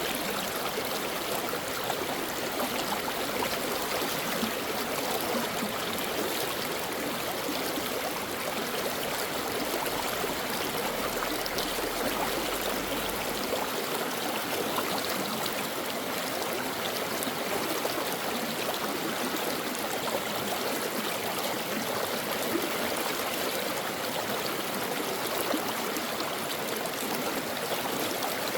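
A brook running over rocks: a steady rush of flowing water with trickling and gurgling.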